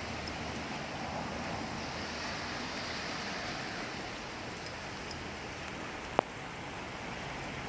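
Steady rain falling, an even hiss, with one sharp click about six seconds in.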